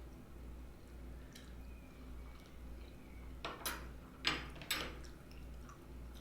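Close-up eating sounds: a utensil clicks sharply against a dish four times in quick succession about halfway through, with faint wet mouth sounds. A steady low hum runs underneath.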